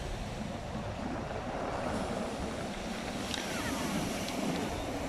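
Sea surf washing on the shore, with wind buffeting the microphone. A few faint high calls come about three seconds in.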